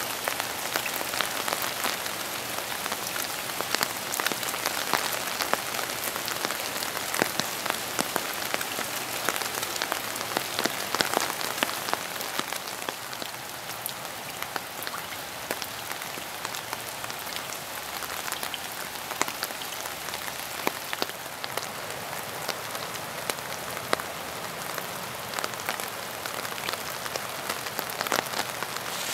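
Steady rain falling, with many sharp individual drop hits sounding close by over the even hiss of the shower.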